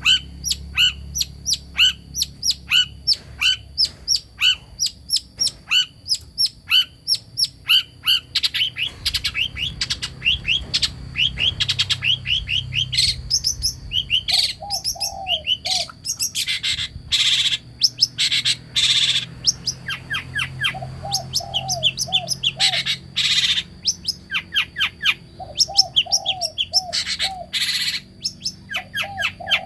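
Long-tailed shrike (cendet) singing: a quick run of repeated sharp chirps about two a second, then a denser jumble of notes broken by harsh rasping calls, with short low warbling phrases coming back every few seconds.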